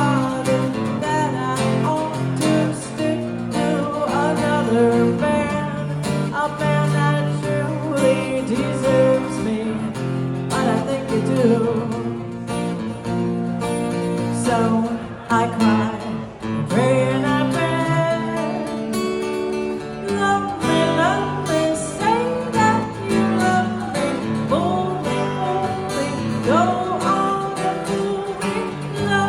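Live music from a duo: acoustic guitar playing chords, with a melody line that bends in pitch over a steady low bass.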